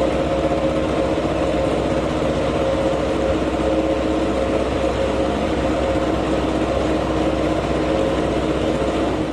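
MotoGP racing motorcycle engine running at a steady pitch, neither clearly revving up nor dying away.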